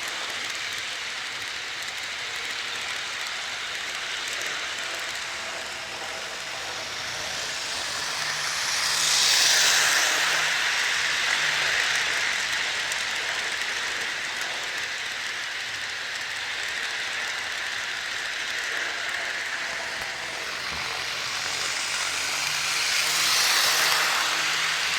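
HO scale model train running on the layout, the wheels rolling and rumbling on the track in a steady rush. It grows louder twice, about nine seconds in and again near the end, as the train comes round close to the microphone.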